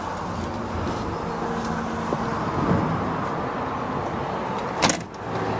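Heavy truck's Volvo TD122 diesel engine idling steadily, with one sharp knock about five seconds in.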